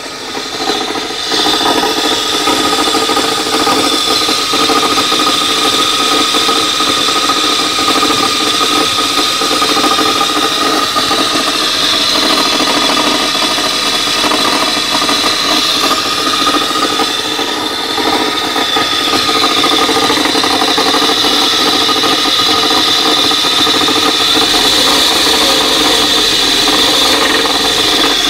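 Car engine idling steadily, with the knocking of a worn front bearing in the alternator and a steady high whine over it.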